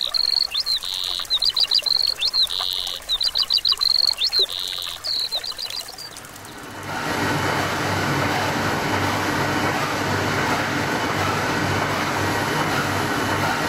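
A songbird singing in quick repeated phrases of chirps and short buzzy notes for about six seconds. Then a steady rushing noise swells up and takes over.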